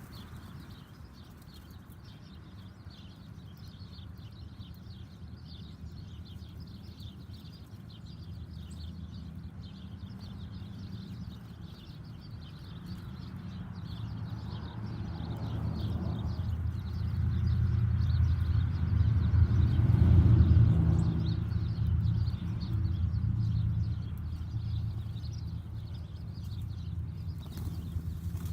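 Small backyard birds chirping continually in quick, high notes. A low engine drone swells up about halfway through, is loudest a few seconds later, then fades away again, like a vehicle or plane passing.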